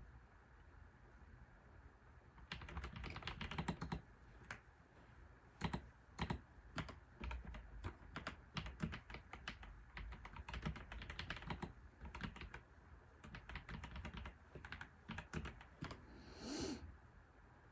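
Typing on a computer keyboard in uneven runs of keystrokes, starting a couple of seconds in and stopping near the end, followed by one brief scraping sound.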